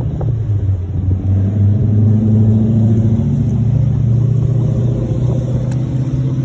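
An engine running steadily, its pitch rising slightly near the end.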